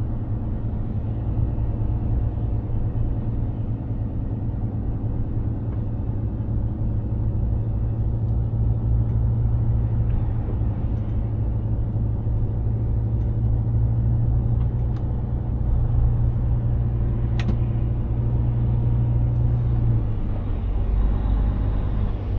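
Mercedes-Benz Actros 2763 truck's straight-six diesel running steadily on the road, a low, even drone. Near the end the engine note drops a little.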